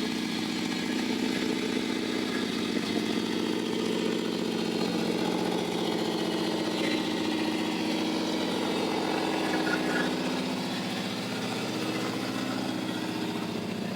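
Engine idling steadily, an even low hum that holds the same speed throughout.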